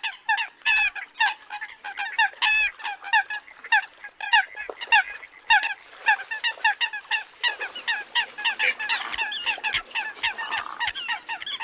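A flock of Eurasian coots calling: many short, sharp calls, several a second, overlapping one another without a break.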